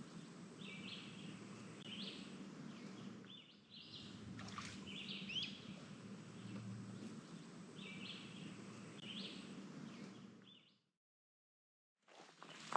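Small birds chirping in short repeated calls every second or two over a faint outdoor background hum; the sound cuts to dead silence about eleven seconds in.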